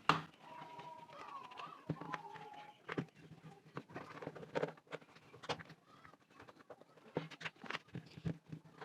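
Scattered faint clicks and taps of the four small case screws of a Bluetooth speaker being undone by hand. A faint wavering animal call sounds in the first few seconds.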